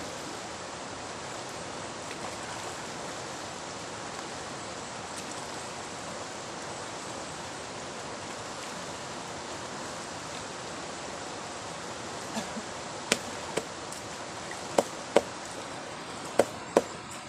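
River water rushing steadily. Several sharp clicks or knocks come in the last few seconds.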